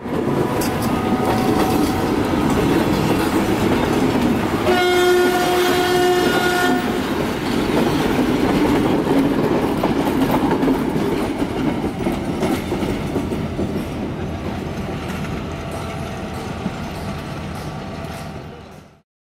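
Diesel-hauled train passing close by, its locomotive and carriages running over the rails, with one horn blast of about two seconds some five seconds in. The train noise slowly fades over the last few seconds.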